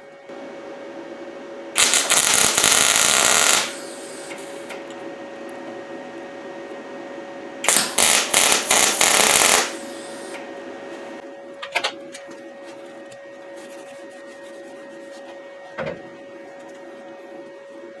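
Welding arc from a YesWelder MP200 crackling in two bursts of about two seconds each, about 2 and 8 seconds in, as railroad spikes are welded together. A steady hum runs underneath, with a couple of short clicks near the end.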